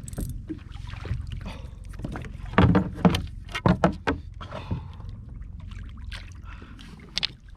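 Steady low rumble of wind and water around a fishing kayak, with a cluster of sharp knocks about two and a half to four seconds in and a single click near the end.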